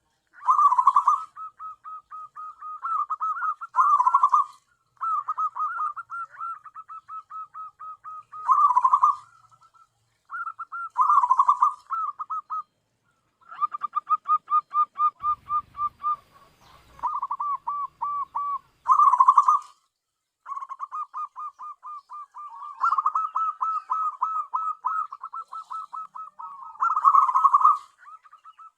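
Zebra dove (perkutut) calling: phrase after phrase of rapid, staccato cooing notes, each run a few seconds long, broken by short pauses and by several louder bursts.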